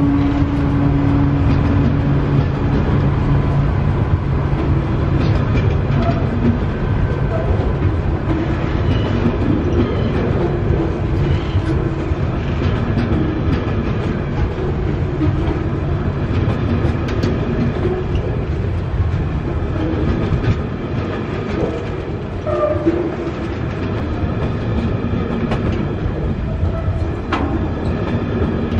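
Loaded container freight wagons rolling past on the rails: a steady rumble with wheels clicking over rail joints.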